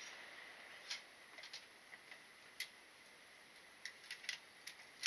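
Faint, irregular light clicks and taps, bunched more closely near the end, over a low steady hiss.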